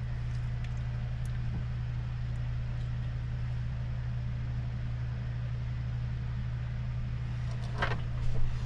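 Steady low hum of an idling engine, with a short brighter sound near the end.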